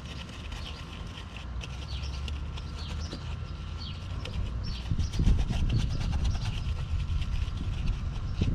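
Detailing brush scrubbing engine-bay surfaces: a quick, scratchy rubbing of bristles that grows louder about five seconds in.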